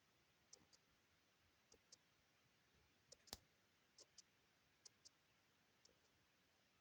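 Faint clicking of a computer mouse, mostly in quick pairs about once a second, with one sharper click a little past the middle.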